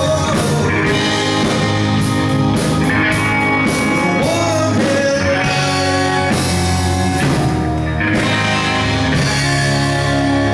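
Rock band playing a bluesy rock number: guitar and a singing voice over drums.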